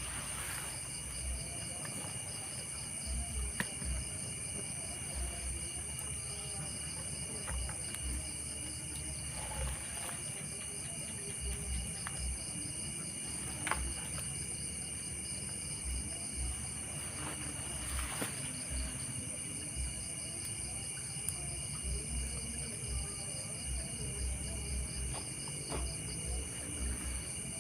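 Steady chorus of crickets and other night insects, several shrill high tones held throughout, with intermittent low rumbles and a few sharp clicks on the microphone.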